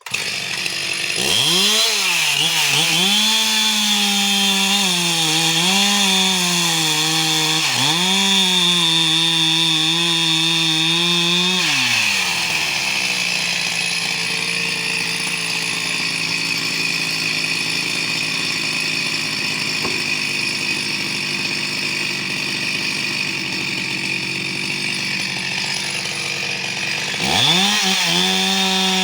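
Chainsaw running and cutting through firewood logs. The engine pitch rises and dips as the chain bites into the wood, falls away for a while, then picks up again near the end.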